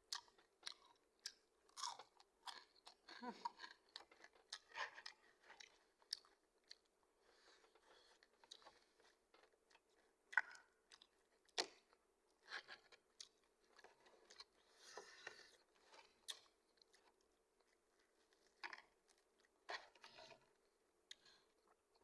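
Close-up chewing of crispy McDonald's fried chicken: irregular sharp crunches of the fried coating between quieter moist chewing sounds.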